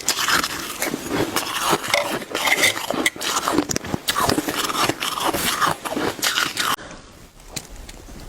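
Shaved ice being bitten and chewed close to the microphone: a dense run of crisp crunches and scrapes that stops abruptly about seven seconds in.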